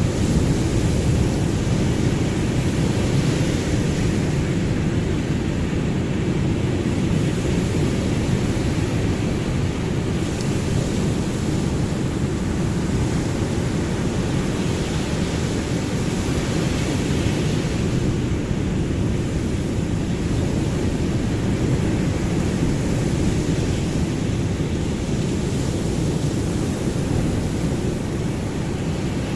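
Ocean waves: a steady deep rumble of surf, with the hiss of breaking water swelling and fading every few seconds.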